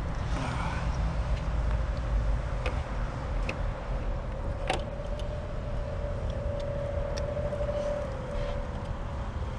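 Steady low rumble with a few sharp clicks and taps from scope test leads and clips being handled, and a steady humming tone through the second half.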